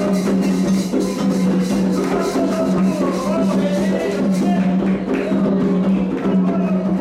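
Candomblé ceremonial music: atabaque hand drums and rattling percussion keep a rapid, even beat while voices sing a chant for Oxum.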